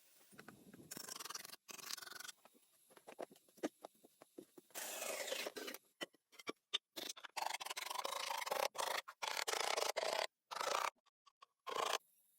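Rough scraping and rubbing in irregular bursts of up to a second or so, starting and stopping abruptly between them.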